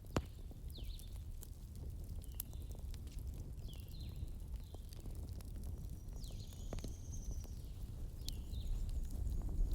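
Wood fire burning, with a low rumble and sharp crackling pops; a loud pop comes just after the start. Faint, short, squeaky high chirps recur about once a second.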